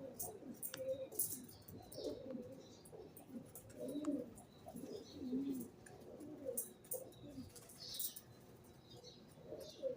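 Pigeons cooing repeatedly, several low, throaty coos overlapping one another, with a few brief high chirps from smaller birds.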